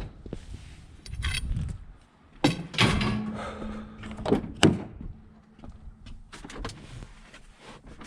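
Knocks, clunks and rattles around a pickup truck, with a short steady whine from about three to five seconds in and two loud knocks near its end.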